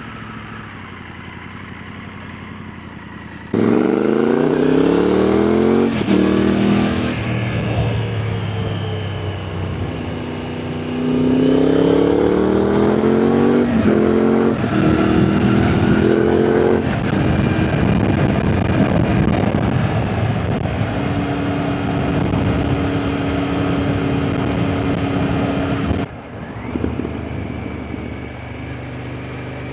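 Triumph Tiger 900 GT's three-cylinder engine through an Arrow aftermarket silencer: idling at first, then suddenly loud and revving up through the gears in several rising runs, then holding a steady pitch before it drops back abruptly near the end.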